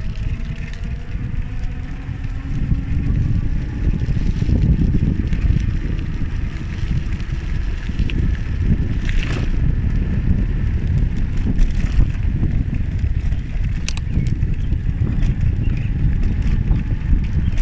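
Wind buffeting the microphone during a ride, a steady low rumble, with a faint tone rising slowly near the start and a few light clicks.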